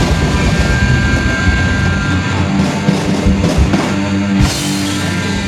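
Punk band playing loud, with distorted electric guitars and a drum kit; the low end thins out about two seconds in, and there are sharp drum hits near the end.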